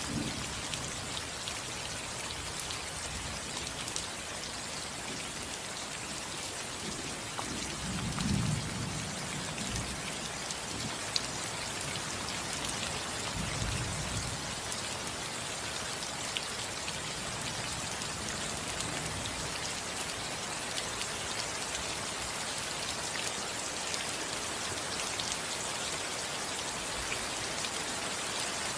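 Steady rain falling on a roof, a dense patter of drops, with two low rumbles of thunder about eight and fourteen seconds in.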